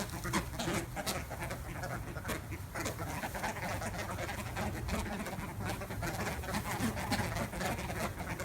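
A flock of birds calling, many short overlapping calls running together throughout.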